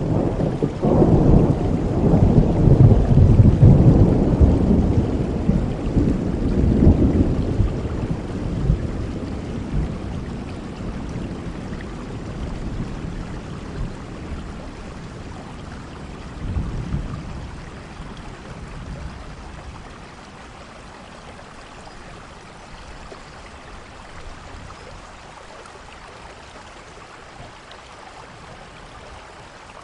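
Thunderstorm: a long roll of thunder rumbling low and loud at the start, with smaller rolls about seven and seventeen seconds in, dying away under steady rain.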